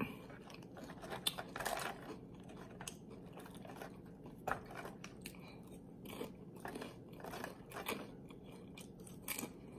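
Close-up eating of loaded nachos made with Flamin' Hot Doritos and multigrain Tostitos: irregular crisp crunches of chips being bitten and chewed, with pauses between.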